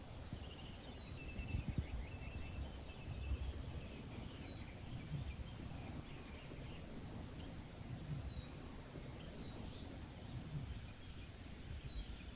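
Wild birds singing: short falling whistles every few seconds among fainter chattering notes, over a low, uneven rumble.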